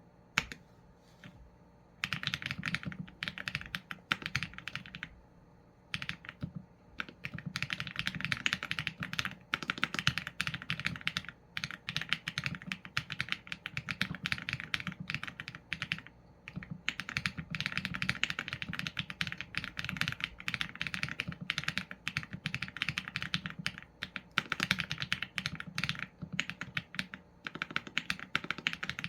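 Mechanical keyboard typing on a Qsenn A75 with Leobog Graywood v4 linear switches and PBT keycaps: a fast, steady run of keystrokes. It starts about two seconds in, with short pauses now and then.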